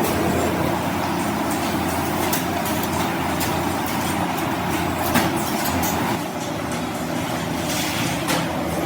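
Workshop machinery running steadily with a low hum, with a few sharp metallic clicks and knocks.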